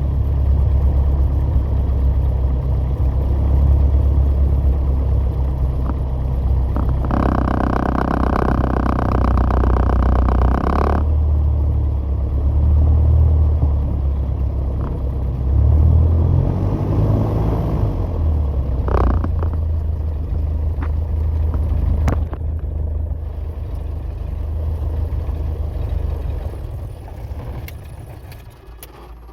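Piper PA28 Warrior light aircraft's engine running with a steady low rumble, a higher buzzing sound joining it for about four seconds partway through; the engine noise dies away near the end.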